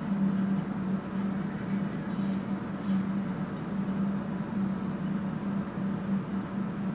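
Ventilation fans running with a steady hum and rushing noise, a slight pulse in the hum, with a few faint light clicks from small metal pieces being handled about a third of the way in.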